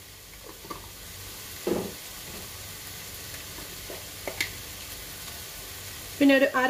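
Chopped onion, carrot and tomato sizzling gently in oil in a non-stick frying pan, a steady soft frying hiss with a few brief clicks.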